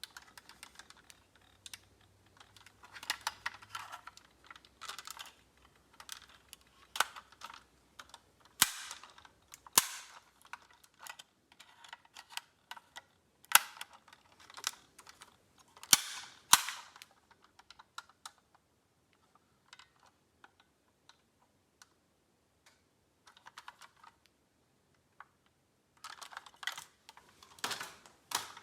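Diecast metal model cars clicking and clacking as they are handled and set down, a run of irregular light knocks with several sharper clacks, and a quiet stretch of a few seconds past the middle.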